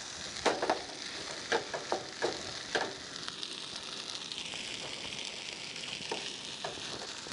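Fried rice with steak sizzling in a pot, stirred with a wooden spoon: a steady high sizzle, with several short scraping strokes of the spoon in the first three seconds or so.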